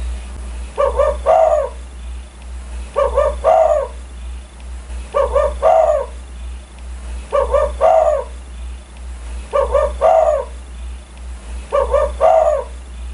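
Spotted dove (tekukur) cooing: six identical phrases, about one every two seconds, each two short clipped notes followed by a longer falling coo. A steady low hum runs underneath.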